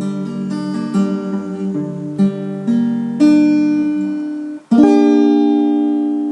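Acoustic guitar playing the song's closing bars: a run of picked notes and chords. About four and a half seconds in there is a brief break, then a final chord is struck and left to ring, slowly fading.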